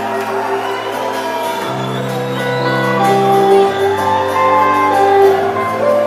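Rock band playing live: an instrumental passage of sustained chords over a bass line that moves to a new note twice, with faint crowd noise.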